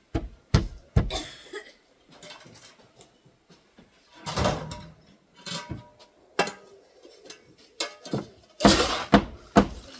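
A series of irregular knocks, thuds and short clattering scrapes as things are handled, knocked and set down around the old window and its sill, the loudest cluster near the end.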